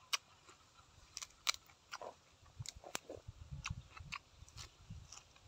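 Fresh leafy greens being snapped from their stems and bitten: a scattered series of quiet, crisp snaps and clicks, with soft chewing from about two and a half seconds in.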